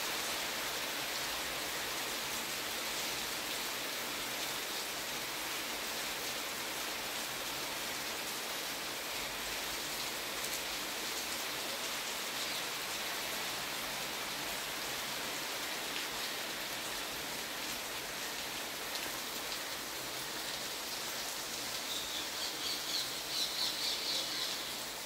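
Steady rain falling, an even hiss. Near the end a bird gives a quick run of high, repeated chirps.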